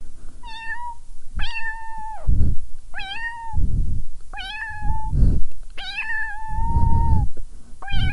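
Domestic cat meowing repeatedly, six separate meows each rising at the start and then held, with loud low-pitched noise in the gaps between them.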